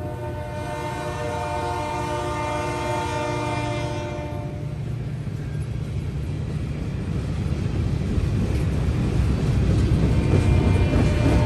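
Air horn of two approaching EMD GP38 diesel locomotives sounding one long blast of several notes for about the first five seconds. After it stops, the locomotives' two-stroke diesel engines rumble and grow steadily louder as the train nears.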